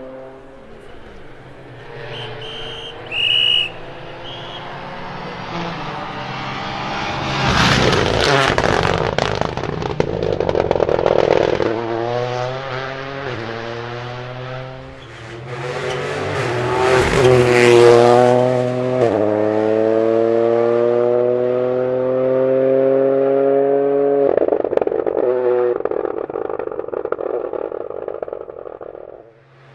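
Toyota GR Yaris Rally2 rally car, a turbocharged 1.6-litre three-cylinder, driven hard on a stage, its engine pitch climbing and then dropping at each upshift several times. Bursts of tyre and road noise come as it passes. A few short high beeps sound about three seconds in.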